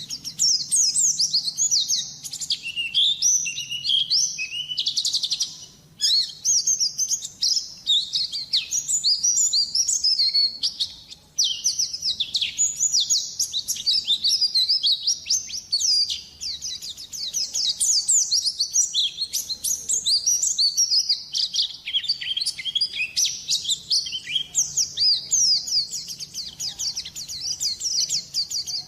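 White-eye (pleci) in full song: a long, rapid twittering of quick, high, down-slurred notes, broken by short pauses about 6 and 11 seconds in.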